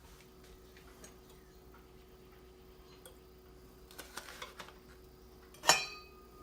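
Light clicks and small knocks of dishes and utensils being handled, then one sharp ringing clink about five and a half seconds in, over a faint steady hum.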